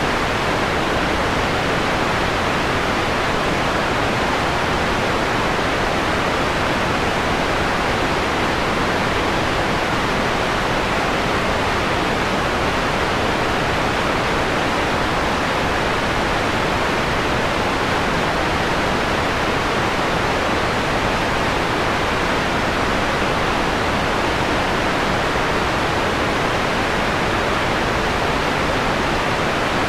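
Steady electronically generated white noise with its high end filtered down, giving a softer, mellower hiss than pure white noise. It holds level without change.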